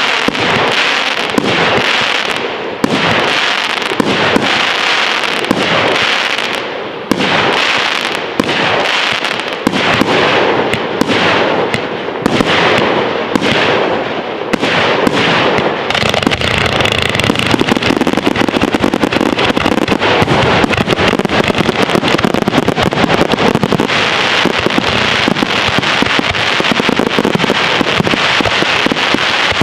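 Fireworks display: aerial shells bursting roughly once a second, each followed by a crackling tail. About halfway through this becomes a dense, continuous barrage of rapid bangs and crackle.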